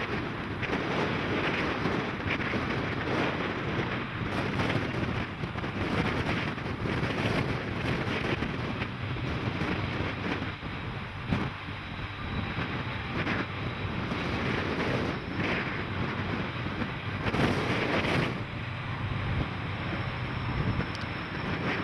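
Wind buffeting the microphone over the steady rumble of a passing train.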